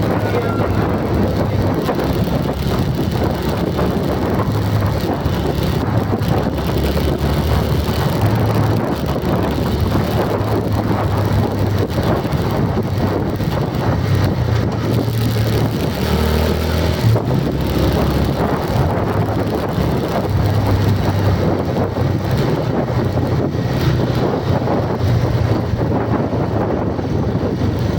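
Steady, loud vehicle noise: a low rumble under a constant hiss, with no break.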